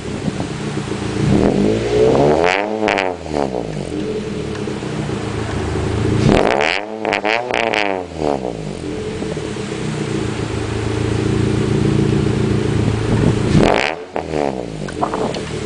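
2009 Scion tC's 2.4-litre four-cylinder, breathing through a 4-1 header, Invidia S-pipe and HushPower resonator with no muffler, idling and free-revved to about 3,500–4,000 rpm. One rev comes about two seconds in, a string of quick blips around the middle, and one more near the end, the pitch rising and falling each time.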